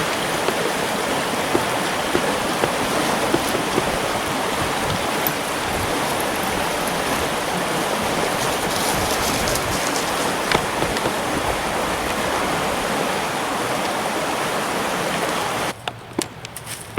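Rushing creek water, a loud, steady hiss, that falls away abruptly near the end.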